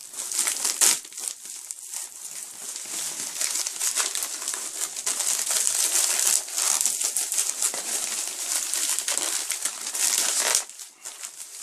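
Packaging crinkling and rustling as a mailed package is opened and handled. The crinkling is continuous and dies away near the end.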